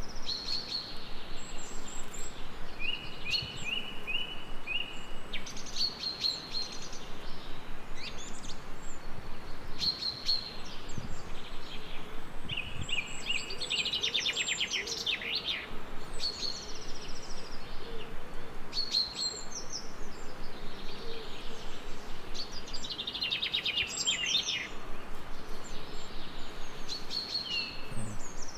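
Several songbirds singing in short whistled phrases and rapid trills, with bursts of livelier song about halfway through and again near the end. They sing over a steady hiss of gentle rain.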